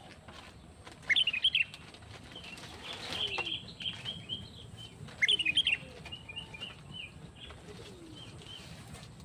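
Birds chirping: a loud burst of quick, high chirps about a second in, repeated about four seconds later, with softer short chirps in between.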